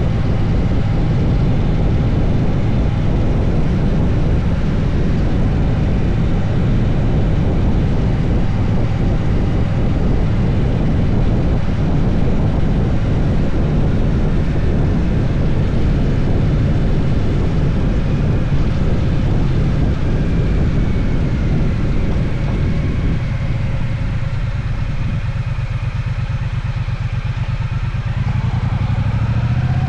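Triumph Bonneville T120's 1200 cc parallel-twin engine running under way with a steady rush of noise. About three-quarters through, the engine note eases off, then its pitch rises near the end as it speeds up again.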